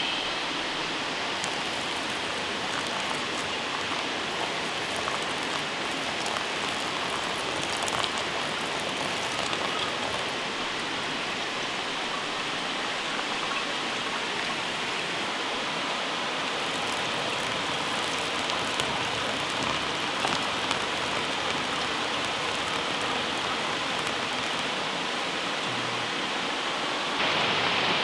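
A steady rushing hiss with a few faint ticks.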